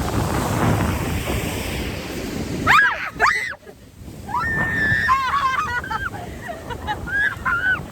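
Ocean surf with wind buffeting the microphone, which breaks off abruptly about three and a half seconds in. High-pitched voices with gliding, bending pitch follow.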